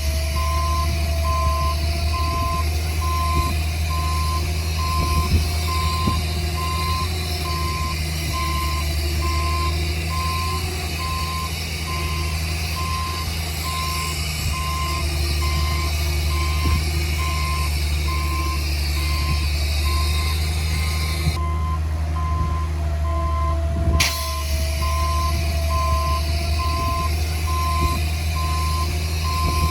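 Reversing alarm of a heavy earthmoving machine beeping at an even pace, over the steady low running of its engine.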